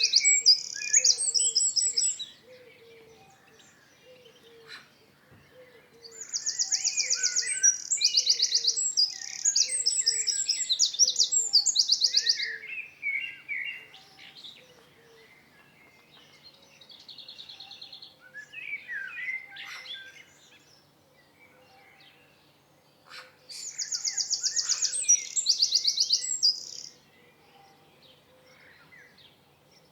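Songbirds singing: three bouts of rapid, high-pitched trills, each lasting a few seconds, with softer scattered chirps between them.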